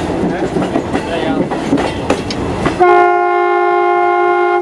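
A train running with a rumbling clatter and some voices, then about three seconds in its horn sounds one long steady blast, the loudest sound here.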